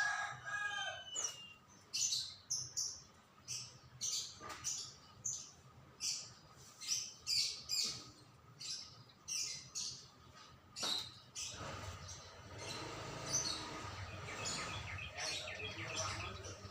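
Songbird chirping in a long series of short, sharp high calls, one to two a second. In the second half a faint low background noise rises underneath.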